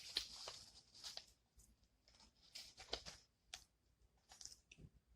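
Faint eating sounds from a fried chicken sandwich: soft, irregular clicks and crackles of chewing, with a short low sound near the end.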